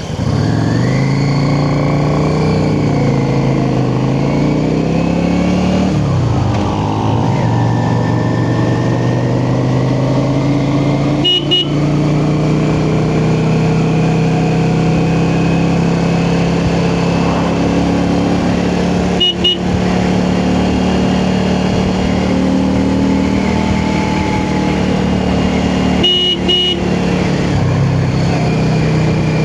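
Yamaha XVS650 V-twin motorcycle engine pulling away and accelerating. Its pitch rises, drops at a gear change about six seconds in, then holds at a steady cruise with small changes, broken by three brief clicks.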